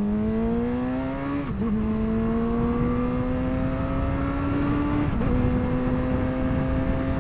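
2007 Suzuki GSX-R600 inline-four with a straight-pipe exhaust accelerating hard. Its pitch climbs steadily through each gear and drops at two upshifts, one about a second and a half in and one about five seconds in, over the rush of wind.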